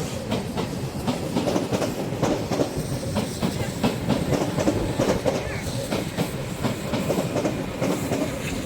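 Train pulling into the station, its wheels rumbling and clattering steadily over the rails.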